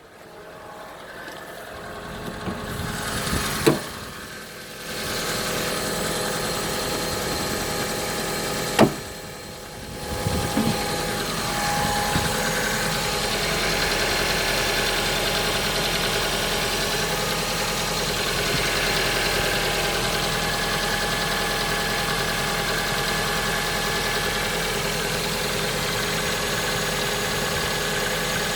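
Hyundai Accent MC engine starting from cold about ten seconds in, after a couple of clicks, then idling steadily. A cold-start knock from the camshaft timing chain, worn and due for replacement, which goes away once the engine warms a little.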